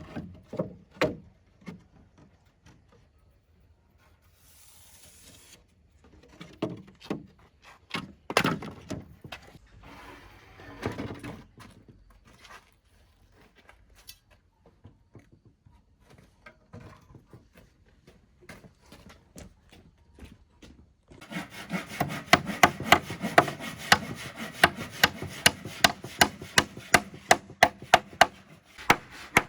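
Wood knocked and handled a few times, then from about 21 s a hand tool working wood with quick, even strokes, about three a second, like sawing or rasping a board.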